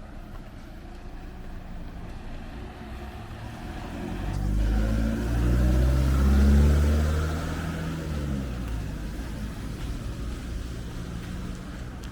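A motor vehicle passing close by on the street. Its engine swells up about four seconds in, is loudest in the middle, then fades as its pitch drops.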